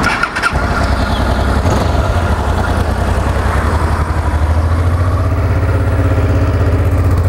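2010 Honda NT700V's liquid-cooled twin-cylinder engine idling steadily, running smoothly with no odd mechanical noises.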